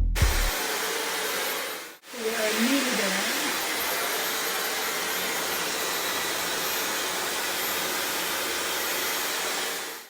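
Dyson Supersonic hair dryer blowing with a steady airy rush, not really noisy for a hair dryer. It breaks off for an instant about two seconds in.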